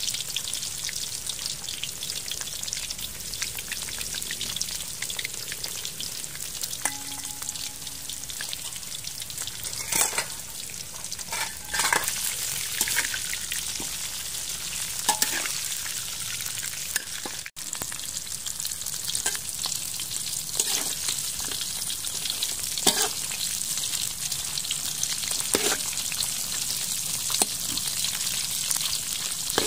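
Fish pieces sizzling in hot oil in a steel wok, with a metal spatula scraping and clacking against the wok now and then as they are turned.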